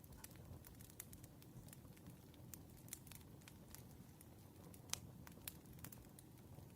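Faint campfire crackling: irregular sharp pops and snaps over a low, steady rumble of burning, with one louder pop about five seconds in.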